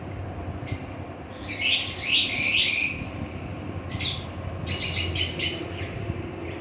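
Parrots screeching: a long harsh run of calls from about one and a half to three seconds in, a single short call at four seconds, then a quick series of short calls around five seconds.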